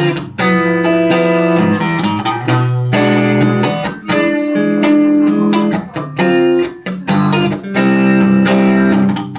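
Electric guitar, a Telecaster played through a Roland JC-120 amplifier, playing an instrumental passage of plucked and held chords, each chord struck sharply and left to ring.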